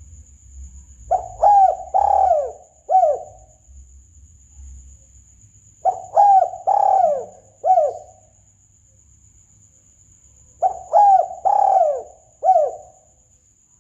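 Spotted dove (tekukur) cooing, played as a hunting lure call: three identical phrases of four falling coos, about five seconds apart. A faint steady high whine runs underneath.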